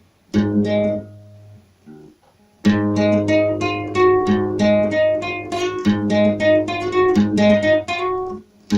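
Acoustic guitar playing: a single chord about half a second in, a short pause, then from under three seconds in a steady fingerpicked pattern of plucked notes over a ringing bass.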